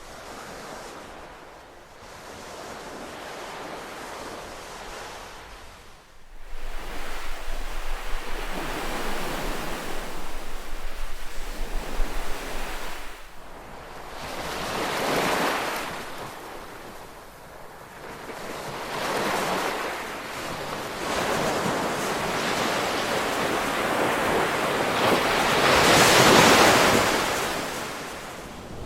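Ocean waves breaking and washing in, in repeated swells that rise and fade every few seconds, the biggest one near the end. For several seconds in the first half, wind gusting across the microphone adds a rough, low rumble.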